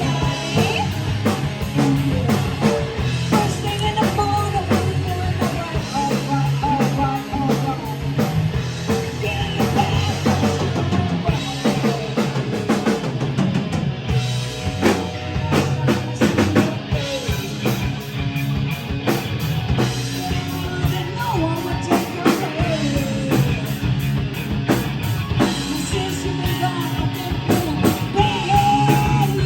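Live hard-rock band playing: drum kit, electric guitar and bass, with a singer's voice over them.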